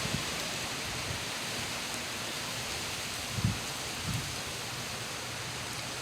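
Gusty tropical-storm wind blowing as a steady rushing noise, with wind buffeting the microphone in two brief low thuds a little past the middle.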